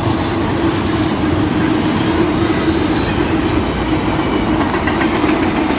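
Long BNSF train of empty intermodal well cars rolling past, a steady loud rumble of steel wheels on rail with a steady underlying hum.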